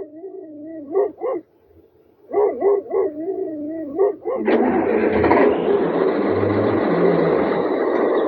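A dog whining and yelping in short wavering calls for the first four seconds, then a louder steady rushing noise takes over.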